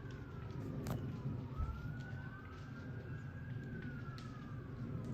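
Two emergency vehicle sirens wailing at once, their pitches slowly rising and falling out of step, over a low rumble.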